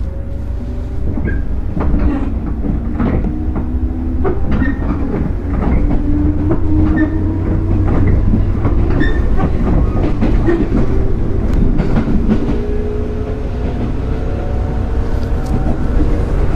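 Running sound heard aboard a JR 205 series 0 electric train with field-added excitation control: the traction motor hum climbs slowly in pitch as the train picks up speed, over a steady rumble with many wheel clicks over rail joints.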